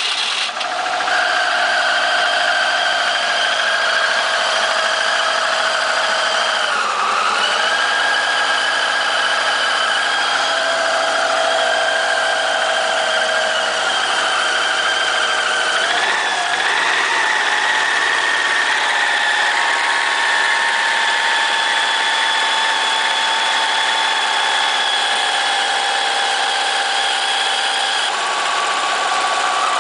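2002 Subaru WRX turbocharged flat-four idling steadily just after a cold start. Its pitch sags briefly twice, once about 7 seconds in and again about 16 seconds in. The engine has low compression and an alternating misfire on cylinders 1–3.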